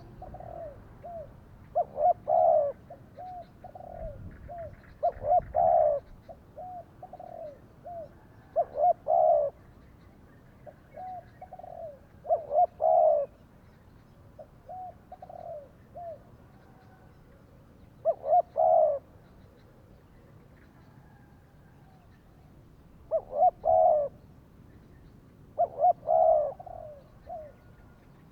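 Spotted doves cooing: loud, repeated coo phrases every few seconds, with fainter coos in between.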